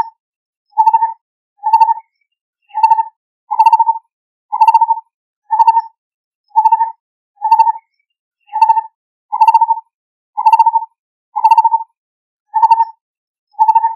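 Lineated barbet calling: a far-carrying, hollow two-note 'kot-tur' repeated over and over, about one note pair a second, with short silences between.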